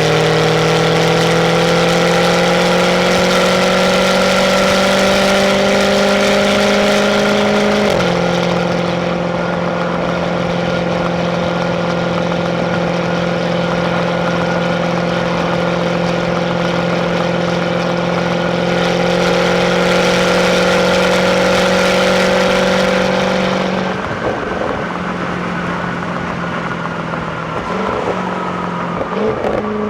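Jaguar F-Type 5.0 supercharged V8 on its stock exhaust, heard from the passenger seat while driving. The engine note rises steadily for about eight seconds, drops abruptly at an upshift, and then holds steady at cruise. Near the end it falls lower and turns uneven.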